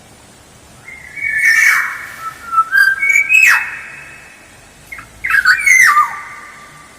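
Black-naped oriole (kepodang) calling in three bursts: fluty whistled notes that slide and drop in pitch, mixed with harsher notes.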